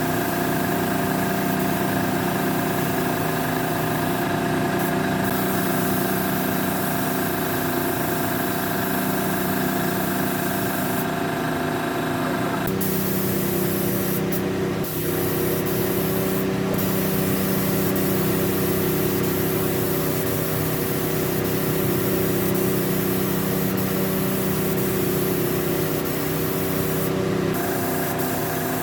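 Air spray gun hissing steadily, with brief breaks where the trigger is let go, over the steady hum of a running machine whose tone shifts about halfway through.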